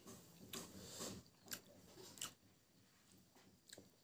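Faint close-up chewing: a few soft mouth smacks and clicks in the first two seconds or so, then near silence.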